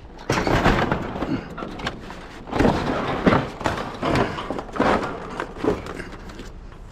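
Irregular knocks, scrapes and rustling of junk being handled and shifted around in a curbside trash pile.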